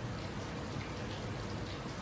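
Hot oil sizzling steadily in a frying pan.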